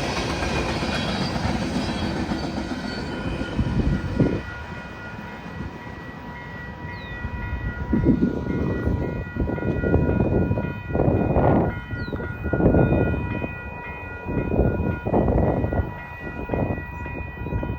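An empty freight train rolling past, its cars clattering in irregular loud bursts over a steady high ringing of several tones that fades toward the end.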